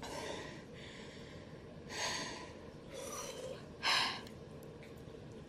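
A woman taking four short, sharp breaths through the mouth and nose, the last and loudest about four seconds in, as she reacts to the burn of very spicy noodles.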